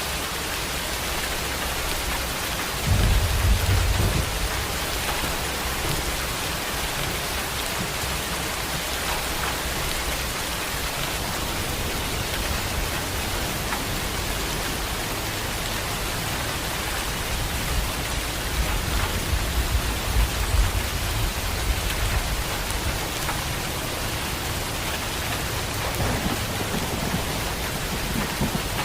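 Heavy steady rain with rolling thunder: a sudden loud low thunderclap about three seconds in, and a longer rumble later on.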